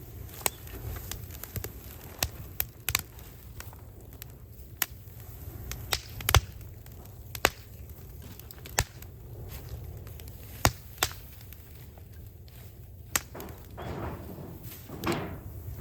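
Scrap wood burning in an incinerator, crackling with irregular sharp pops and cracks over a low steady rumble, with a short rustling sound near the end.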